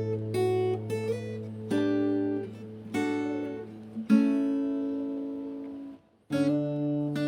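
Background music: acoustic guitar playing slow plucked chords, one chord left to ring and fade out for about two seconds before a short break and the next chord.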